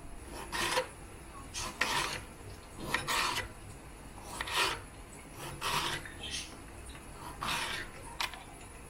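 A series of rasping, scraping strokes, about one a second, such as something being scrubbed, brushed or grated by hand.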